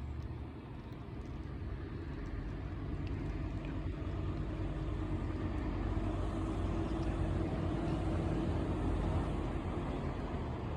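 Military aircraft flying overhead: a low engine rumble that grows steadily louder, with a steady hum joining it about six seconds in.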